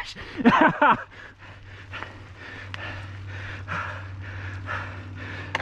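A mountain biker panting hard, with quick, heavy breaths about twice a second from the effort of a hard climb. There is a short vocal groan just after the start.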